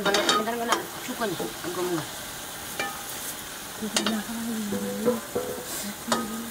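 Sliced vegetables sizzling in a hot wok while a metal ladle stirs them, clinking and scraping against the pan now and then.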